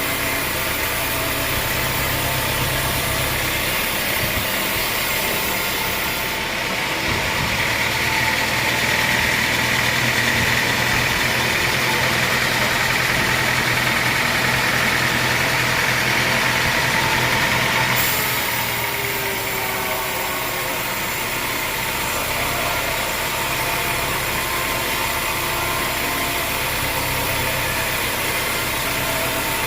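Homemade sawmill's engine running steadily with a low drone. From about six to eighteen seconds in, a brighter high-pitched band rides over it and stops abruptly.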